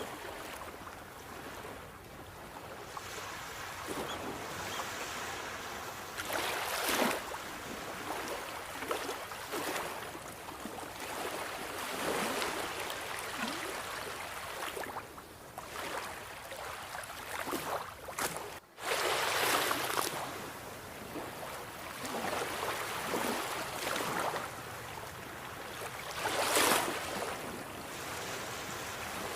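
Sea waves washing onto the shore in a steady wash of surf, swelling into louder breaks every few seconds, with a momentary dropout about two-thirds of the way through.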